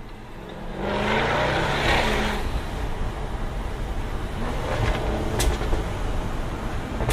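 Jaguar F-Type R's supercharged V8 under acceleration: about a second in, the engine note jumps in loudness and rises in pitch, then settles into a steady drone. A single sharp crack comes through about five and a half seconds in.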